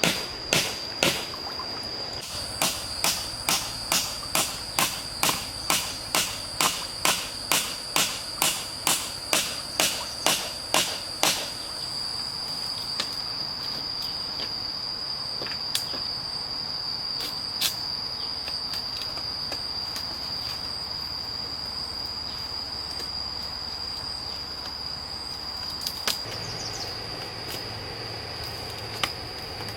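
Steady blows of a hand tool on wood, about two a second, that stop about eleven seconds in, over a continuous high-pitched insect drone. A few single knocks follow later.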